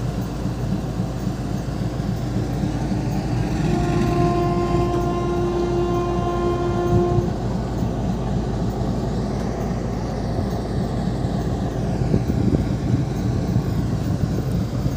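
Passenger train running on the rails, a steady rumble heard from on board, with a locomotive horn sounding one long steady note from about four seconds in, lasting about three seconds.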